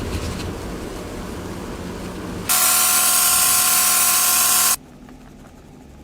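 A low rumbling noise, then about two and a half seconds in a loud, steady hiss of blown air with a steady whine starts from a small air tool, such as a spray gun or dryer used in leather repair, and cuts off suddenly after about two seconds.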